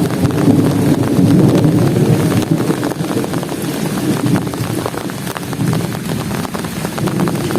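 Heavy rain pouring steadily: a dense patter of drops over a deep, rushing wash of sound.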